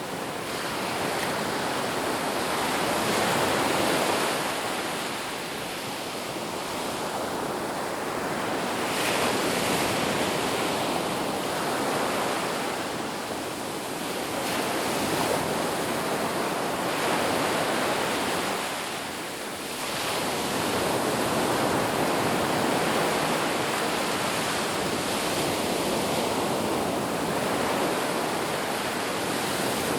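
Ocean surf on a beach: a continuous rush of breaking and washing waves that swells and eases every few seconds, with a brief lull a little past the middle.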